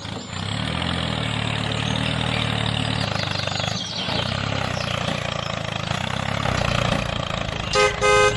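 Small engine running steadily with an even, unchanging note. Near the end come two short beeping tones in quick succession.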